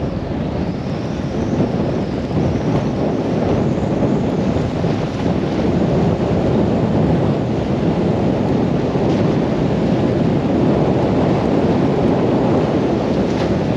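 Strong storm wind buffeting the microphone: a loud, steady rushing noise that builds a little in the first few seconds and then holds.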